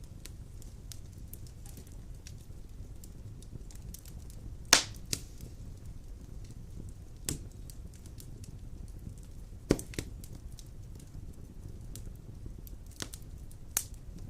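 Wood fire burning in a stone fireplace: a steady low hiss with constant small crackles and a few loud sharp pops, the loudest about a third and two thirds of the way through.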